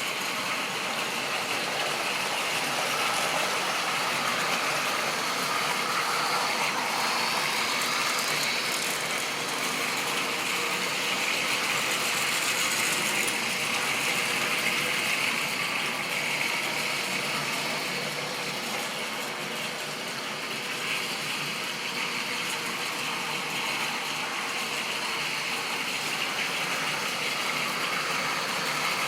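Model railway train running along the track: a steady mechanical whir and rattle from the locomotive's motor and the wheels of the rolling stock on the rails.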